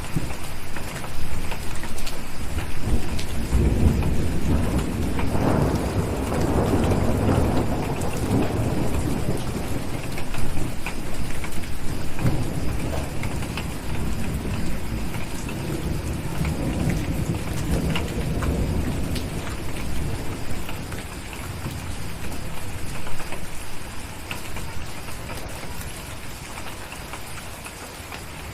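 Steady rain pattering on a window, with a long rolling rumble of distant thunder that builds a few seconds in, is loudest near the start and slowly dies away over the second half.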